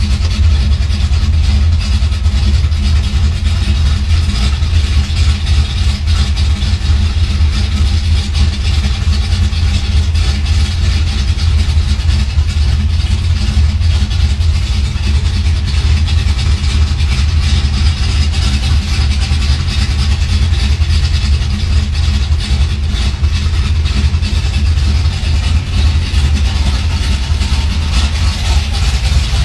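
1969 Chevrolet Camaro engine idling steadily, heard from inside the cabin, a loud low rumble with no revving.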